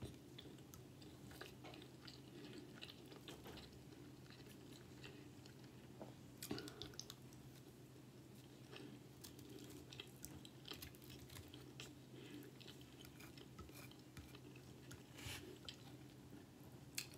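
A person chewing a mouthful of fried food, faintly, with soft mouth clicks. A couple of sharper clicks come about six and a half and fifteen seconds in.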